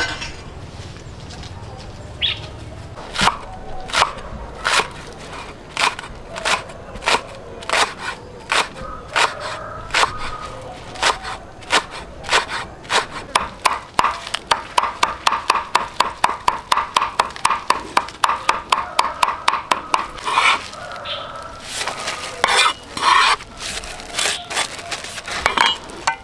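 A long series of sharp knocks, a couple a second at first, quickening to a fast run of about four or five a second in the middle, then slowing and becoming irregular near the end.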